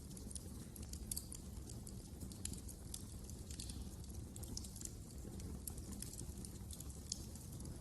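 Wood fire crackling: frequent irregular small pops and snaps over a low steady rumble.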